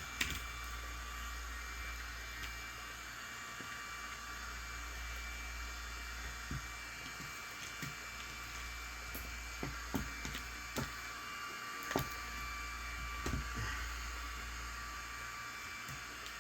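Scattered light clicks and taps of small tools and phone parts being handled during a phone screen repair, about seven in all, over a steady background hiss and hum.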